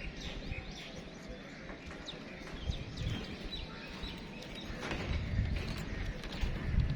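Outdoor ambience of birds chirping in short high calls, with scattered clicks and knocks and a low rumble that grows louder near the end.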